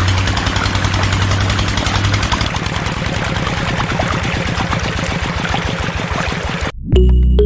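Small motor of a homemade mini tractor running steadily with a rapid, even pulse, its pitch dropping slightly about two and a half seconds in. Near the end it cuts off abruptly and music starts.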